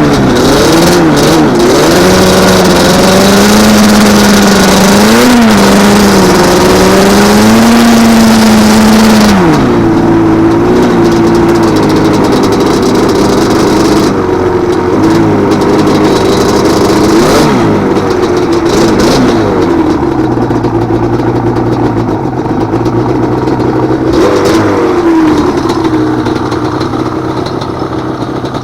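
Yamaha Banshee 350's twin-cylinder two-stroke engine revving high with quick throttle blips, then about nine seconds in dropping to a low idle broken by a few short revs.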